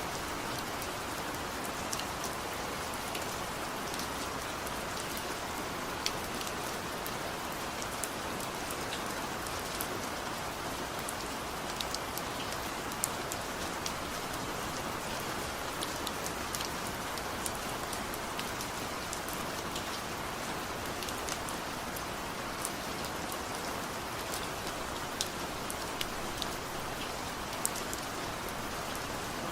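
Steady light rain falling, an even hiss with many scattered individual drop ticks and no thunder.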